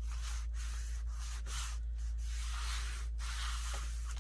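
Paper being rubbed by hand in a series of scraping strokes, about half a dozen, each under a second long with short breaks between them, over a steady low electrical hum.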